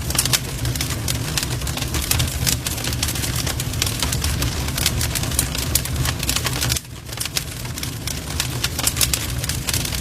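Wood fire in a fireplace crackling: many sharp pops and snaps over a steady low rumble of flames, briefly dropping in level a little over two-thirds of the way through.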